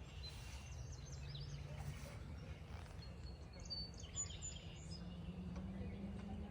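Low, steady buzzing of a honey bee swarm, rising slightly in pitch near the end, with small birds chirping briefly now and then.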